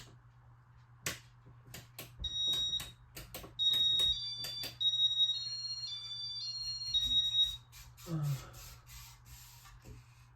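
A few sharp clicks, then a run of high electronic beeps that step up and down in pitch like a short tune, over a low steady hum.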